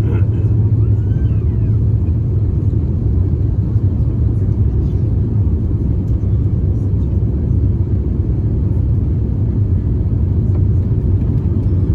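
Steady low rumble of engine and airframe noise heard inside the cabin of an Airbus A350-900.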